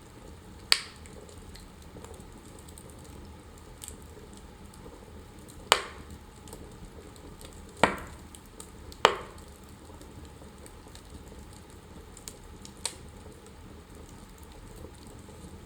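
Wood fire burning in a fireplace: a soft steady hiss with scattered small crackles and four sharp, loud pops from the burning logs, at about one, six, eight and nine seconds in.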